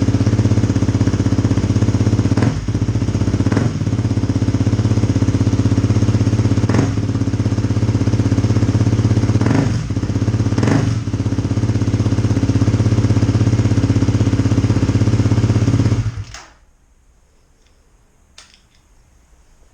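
2018 Kawasaki KLX250's single-cylinder engine idling through an FMF Q4 slip-on exhaust, its mid pipe joint freshly sealed. The idle dips briefly a few times, and the engine is shut off about 16 seconds in, leaving a few faint clicks.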